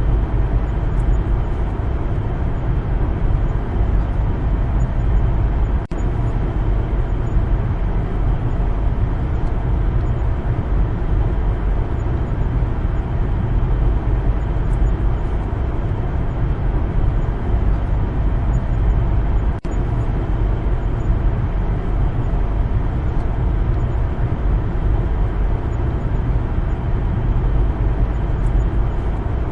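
A car driving, a steady low rumble of engine and road noise that breaks off for an instant twice.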